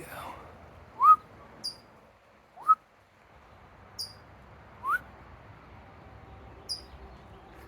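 A small songbird giving short, high, down-sweeping chirps, answered by a person's short rising whistles; the whistles are the loudest sounds, three of them, with the chirps falling between them.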